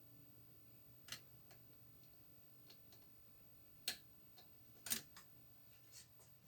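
Scattered light clicks and taps of small parts and tools being handled against near silence, about half a dozen at irregular spacing, with the two sharpest about four and five seconds in.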